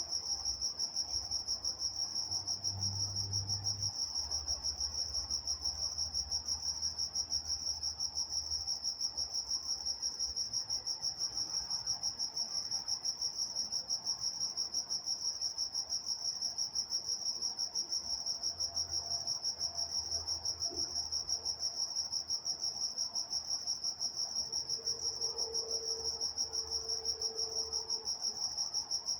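Crickets chirping at night in a steady chorus, a high-pitched, fast and even pulsing that never lets up. A faint low rumble sits underneath.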